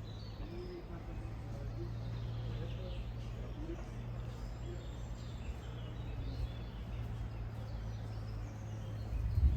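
Faint birdsong, scattered short chirps and whistles, over a steady low rumble.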